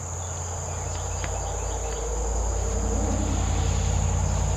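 Steady high-pitched insect chorus, with a low rumble that grows louder from about a second in.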